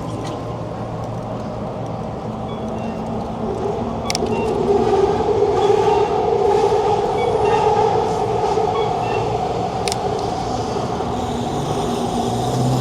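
Steady droning hum of a passing motor vehicle, with several tones, growing louder about four seconds in and easing off near the end, with a couple of sharp clicks.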